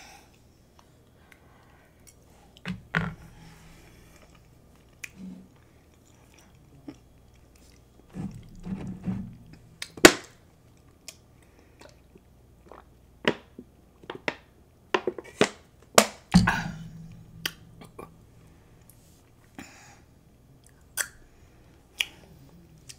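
Close-miked chewing of chili cheese fries: wet mouth sounds and scattered sharp clicks, on and off.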